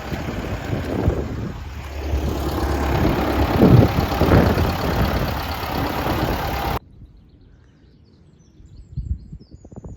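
Wind buffeting an outdoor microphone with a heavy rumble. It cuts off suddenly about seven seconds in, leaving a quiet scene with faint bird chirps.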